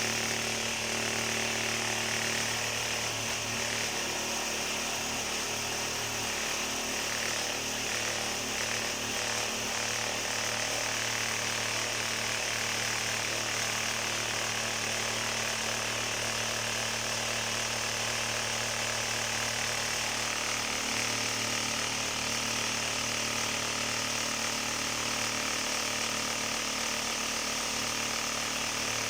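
A motor-driven machine running steadily: a constant low hum with an even hiss over it, its tone shifting slightly about twenty seconds in.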